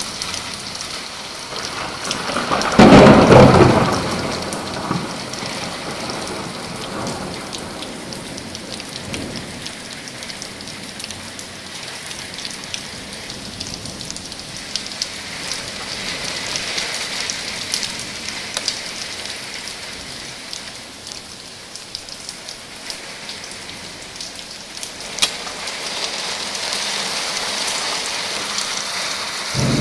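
Heavy rain falling steadily in a summer thunderstorm, with a loud clap of thunder about three seconds in that rumbles off over a couple of seconds.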